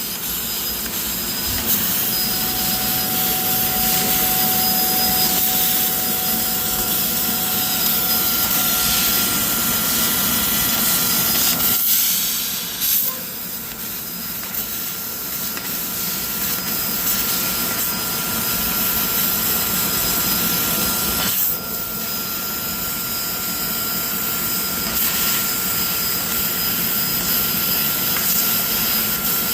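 CNC laser cutting machine running in a metal shop: a loud, steady hiss with a few thin steady tones over it. The noise drops briefly about twelve seconds in and again about twenty-one seconds in.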